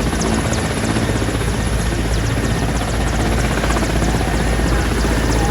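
Helicopter running loud and steady, its rotor and turbine making a continuous even beating noise.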